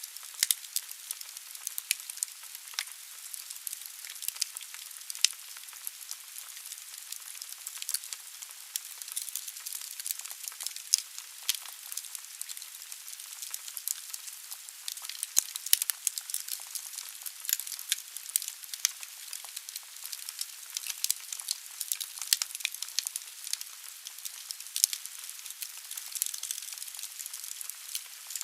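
Wood fire burning in a fireplace: a steady hiss of flame with dense, irregular sharp crackles and pops from the burning logs.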